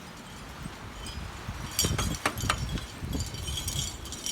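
Gusty wind buffeting the microphone in a blizzard, with a low rumble that picks up about halfway through. Wind chimes tinkle faintly in the gusts.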